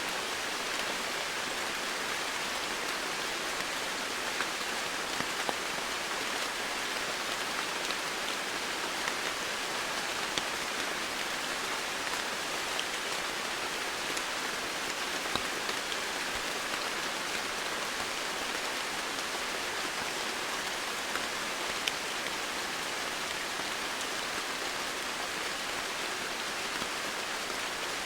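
Steady rain falling, a dense even hiss with a few separate drops ticking now and then.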